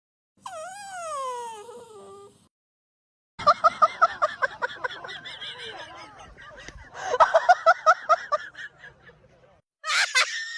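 Dog vocalising: a pitched whine that glides down and up, then, after a short silence, two runs of rapid laugh-like pulsed yips, about five a second. A short sharp loud burst comes near the end.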